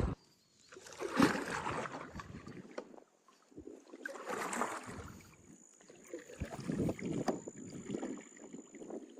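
Water splashing and sloshing around a kayak on a choppy river, in uneven swells every couple of seconds, like paddle strokes and wavelets slapping the hull.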